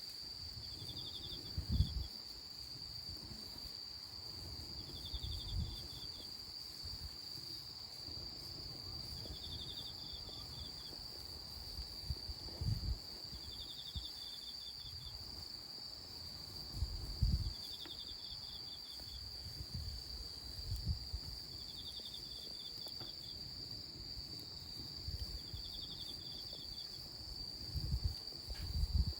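Insects calling: a steady high-pitched drone, with a short pulsed trill repeating about every four seconds. Dull low rumbles come and go several times.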